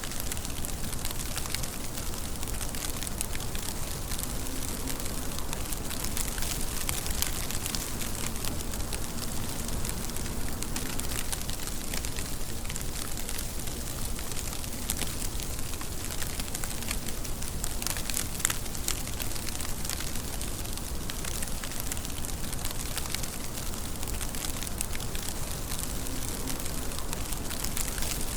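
Steady rain falling, a constant hiss with a dense patter of individual drops.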